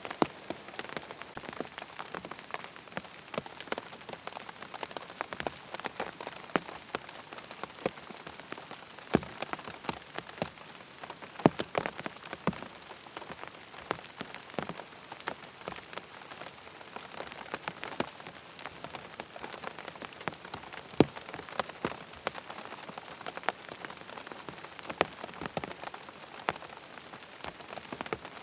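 Steady rain falling, with many sharp individual drop ticks of uneven loudness over an even hiss.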